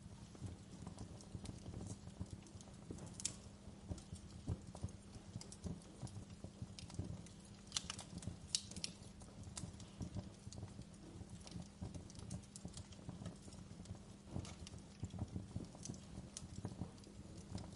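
Wood fire burning in a fireplace: a low steady rumble of flames with irregular crackling and a few sharper pops, the loudest about three seconds in and around eight to nine seconds in.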